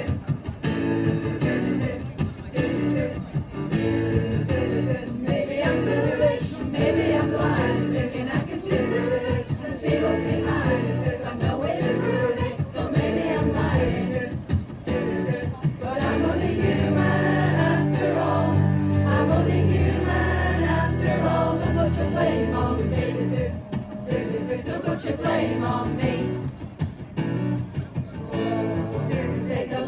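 A choir singing a song, the voices holding and moving between sustained notes.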